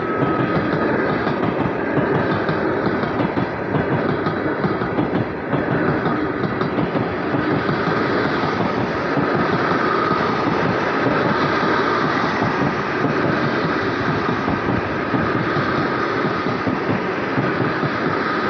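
Passenger train hauled by a KZ4A electric locomotive running by: continuous wheel-on-rail rumble and clatter, with a faint steady whine over the top.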